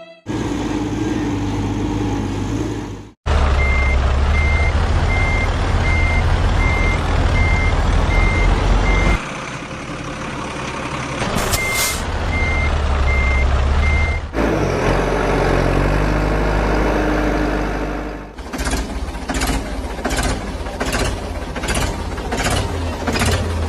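Heavy truck's engine running low and loud while its reversing alarm beeps at an even pace, with a short air-brake hiss about halfway. Near the end comes a regular clatter, about two knocks a second.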